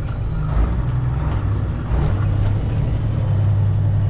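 Semi truck's Detroit Diesel 12.7 inline-six running at low speed, heard from inside the cab as a steady low drone that gets stronger about halfway through.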